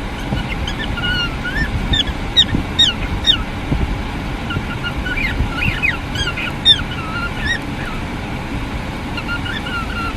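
Birds calling in a run of short, pitch-gliding calls, several a second in bursts, over a steady low rumble.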